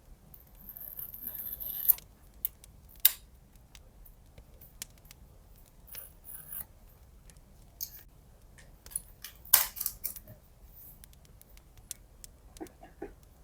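Scissors cutting: one long cut of about a second and a half that ends in a sharp snip, then scattered short snips and clicks, the loudest a little before the ten-second mark.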